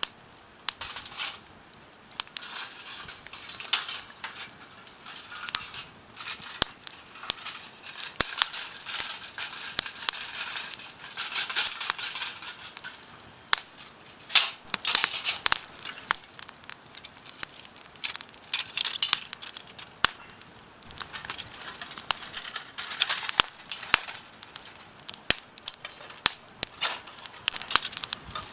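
Wood fire crackling in a campfire fire pit: many sharp irregular pops and snaps over bursts of hiss.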